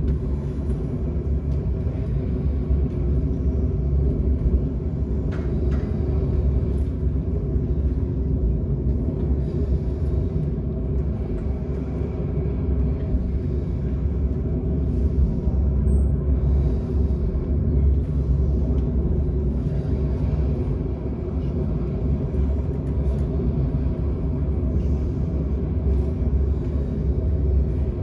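Steady, loud low rumble with no pitch, even throughout.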